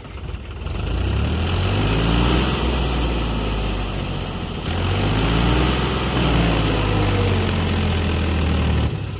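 Sonalika DI 47 RX tractor's diesel engine working hard under load in two long surges: it comes up about a second in, eases off briefly around the middle, climbs again, then drops back to a lower running note near the end.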